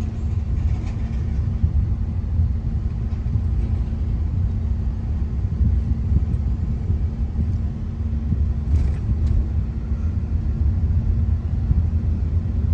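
Steady low road and engine rumble heard from inside a moving car, with a constant low hum and no sharp events apart from a faint click about nine seconds in.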